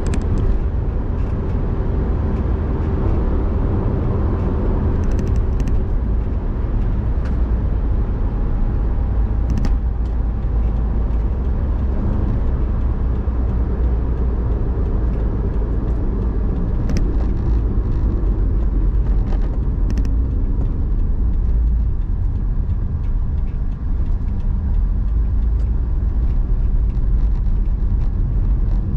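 Car being driven: a steady low rumble of engine and road noise, with a few faint clicks.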